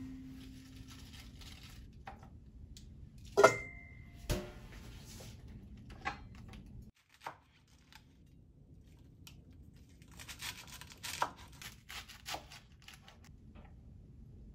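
Kitchen food-preparation handling sounds. A few sharp knocks come first, one of them a clink that rings briefly about three and a half seconds in. After a sudden drop in level, there are a few seconds of rustling and tearing with small clicks.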